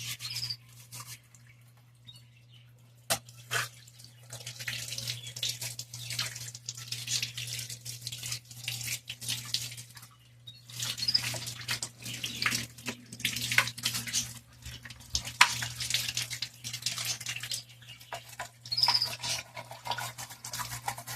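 Water splashing and hand scrubbing inside a washing machine being cleaned, in irregular bursts with short pauses. A steady low hum runs underneath.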